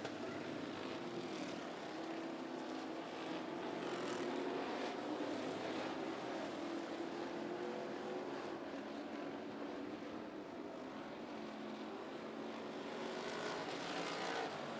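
Classic-division dirt-track race cars running laps, a steady engine drone whose pitch slowly wavers as the field circles the oval.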